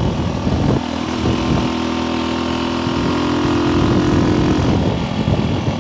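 1964 Honda C200's small single-cylinder four-stroke engine running under way in a higher gear, its note holding steady, with wind rumbling over the microphone.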